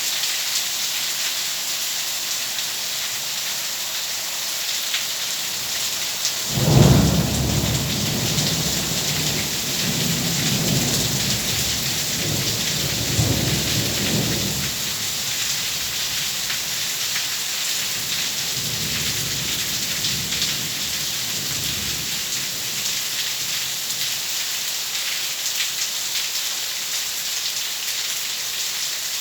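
Steady heavy rain with a thunderclap about six seconds in that rolls on as a long rumble for several seconds, then a fainter roll of thunder later.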